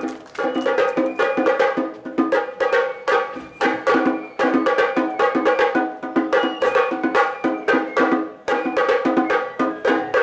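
Bells on a mikoshi portable shrine jangling without pause as it is carried and shaken: rapid, irregular metallic strikes, several a second, each leaving a ringing tone.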